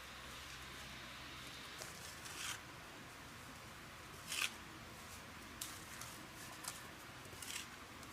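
About six short rustling, scraping handling sounds over a steady hiss, the sharpest about four and a half seconds in.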